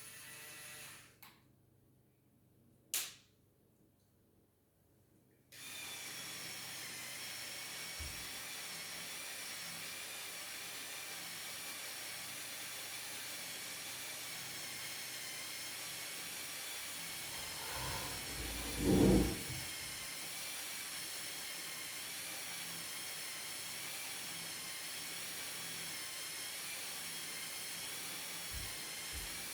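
A small electric motor starts about five seconds in and runs steadily with a high, slightly wavering whine. Around two-thirds of the way through there is a louder low rumble lasting about a second and a half.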